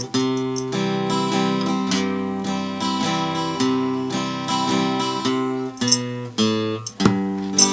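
Acoustic guitar strumming chords, a song's instrumental intro.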